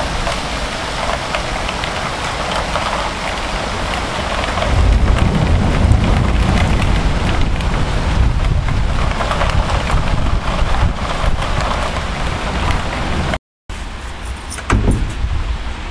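Heavy cloudburst rain pouring down, a dense steady hiss, with a deep low rumble swelling about five seconds in. The sound cuts out for a moment near the end.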